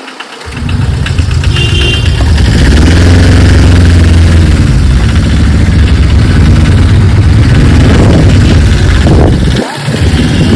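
Motorcycle engine heard from the rider's position, coming in loud about half a second in and then revving up and down as the bike rides, with a brief drop in level near the end like a gear change.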